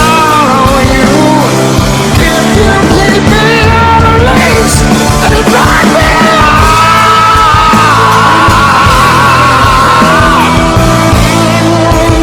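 Rock song: a male voice sings with a full band, holding a long high note through the middle of the stretch before it drops away.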